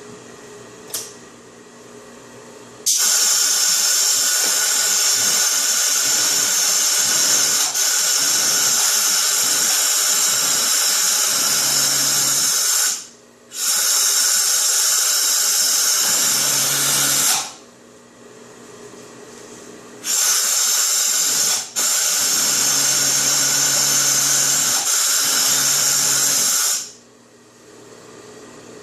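Highlead GM288 high-speed industrial overlock sewing machine running at full speed in four runs of several seconds each, stopping briefly between them. Its fast, high whir is loud and steady while it sews.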